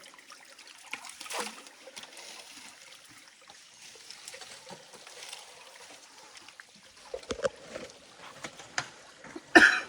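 Stream water trickling and splashing, with scattered small splashes and knocks. There is a brief, loud burst near the end.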